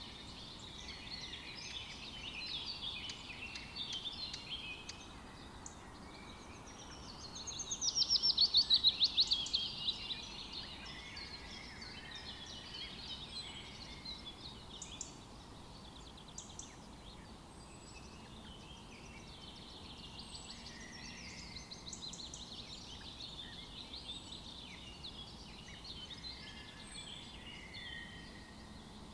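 Several songbirds singing and chirping together in a forest, over a faint steady hiss. About seven seconds in, one bird gives a loud, rapid trill lasting about three seconds.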